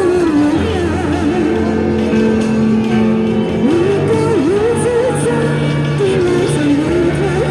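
A woman singing a Chinese pop song over a backing track, her sung line wavering with vibrato above steady accompaniment chords and bass.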